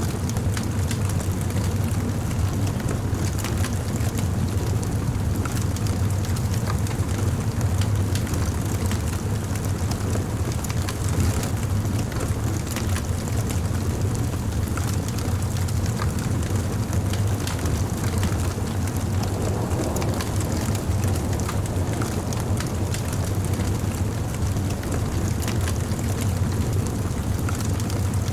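Wood fire burning: a steady low rumble under many scattered sharp crackles and pops from the burning wood.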